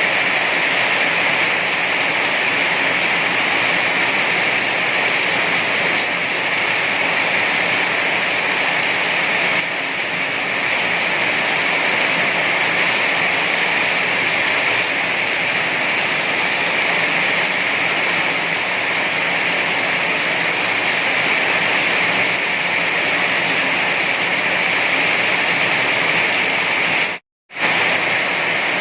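Heavy rain falling in a steady, dense hiss with no separate drops standing out. Near the end it cuts out to silence for a fraction of a second, then resumes as before.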